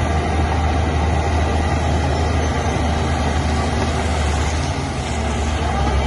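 Heavy diesel engine of earthmoving machinery running steadily, with a deep low rumble, easing off slightly about five seconds in.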